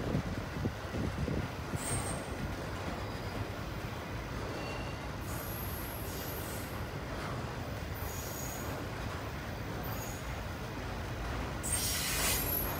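Freight train's autorack cars rolling past: a steady rumble of steel wheels on rail, with brief high-pitched wheel squeals now and then and a louder burst of squealing near the end.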